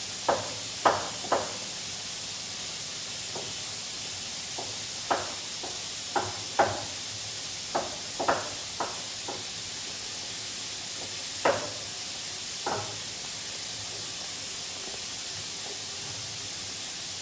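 Scattered light knocks and taps at irregular intervals, about fifteen in all and loudest in the first couple of seconds and again around six to nine seconds in, over a steady background hiss.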